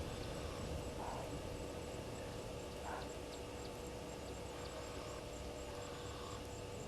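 Outdoor bush ambience at a waterhole: a steady low background rush with a faint, even high-pitched trill and a steady hum. Two short faint calls come about one second and three seconds in.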